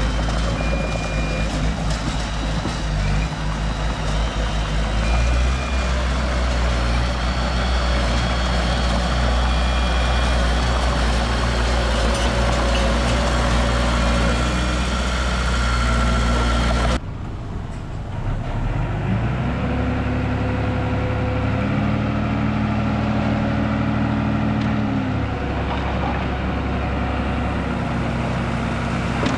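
Heavy construction machinery engines running steadily under load. About two-thirds of the way through, the sound cuts abruptly to another machine, whose engine pitch rises and then falls back.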